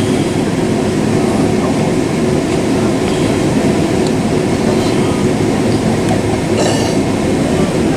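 Steady cabin noise inside a Boeing 767-400 airliner in flight: a loud, even rush of engine and airflow noise with a constant low hum.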